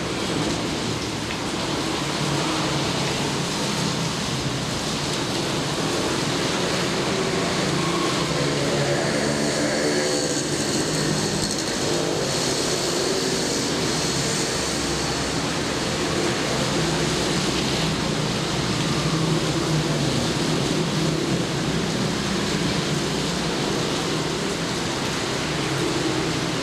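Heavy rain falling steadily, a constant hiss. A faint motor drone rises and fades in the middle.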